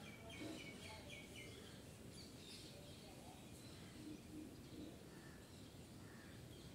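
Near silence with faint background hiss and small birds chirping in the distance: a quick run of about six short high chirps in the first second and a half, then scattered faint chirps.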